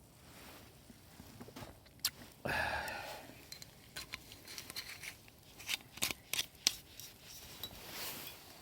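Handling noises: a string of sharp clicks and taps, with a short rustling burst about two and a half seconds in.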